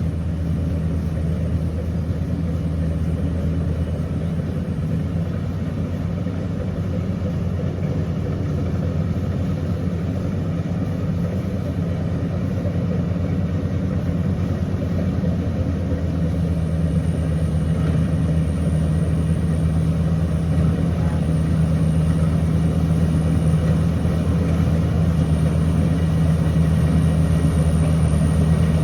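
Rice combine harvester running steadily: a low, even engine drone that grows slightly louder toward the end, with a faint high whine joining about two-thirds of the way through.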